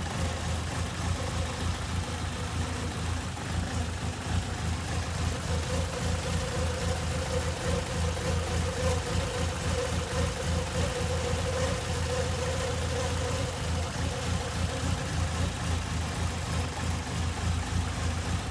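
Toyota AE86's four-cylinder engine idling steadily, with a mid-pitched hum over the low drone that grows stronger for several seconds mid-way.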